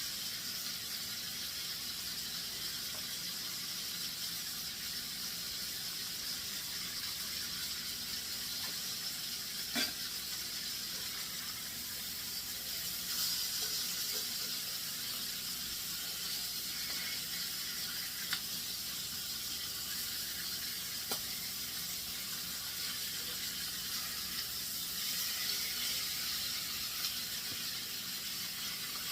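Bone-in, skin-on chicken thighs frying in oil in a crowded skillet: a steady sizzle, with a few light clicks scattered through it.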